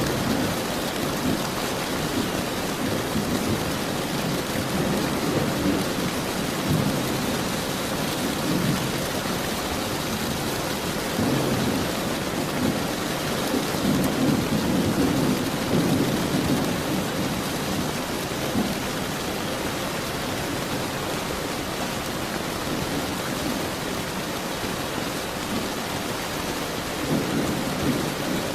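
Steady rain hissing, with distant thunder rolling in low, drawn-out rumbles that swell and fade several times. The longest and loudest roll comes about halfway through.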